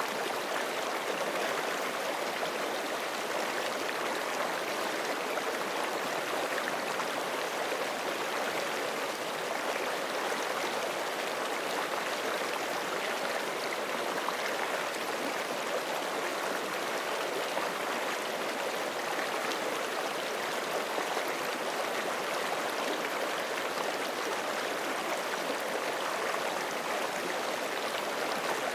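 Forest creek running over rocks: a steady, even rush and babble of flowing water.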